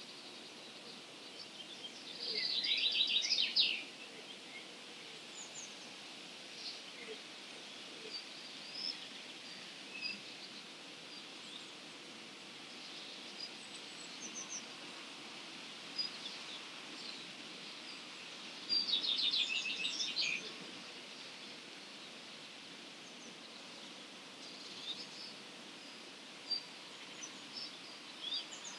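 Early-morning songbird chorus: one bird sings a short phrase of rapid high notes twice, about two seconds in and again about nineteen seconds in, each under two seconds long. Scattered faint chirps and calls from other birds sound between them over a steady background hiss.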